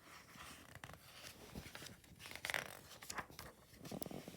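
Faint rustling, scraping and light clicks of paper: a picture book's pages being handled.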